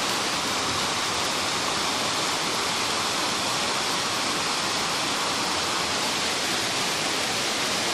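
Heavy tropical rain pouring down in a steady, even hiss that does not let up.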